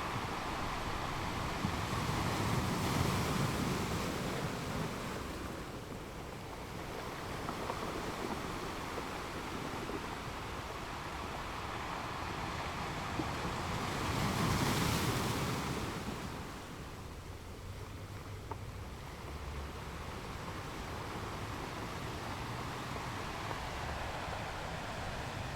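Ocean waves breaking on a beach: a steady wash of surf with two larger waves swelling and falling away, about three seconds in and again about fifteen seconds in.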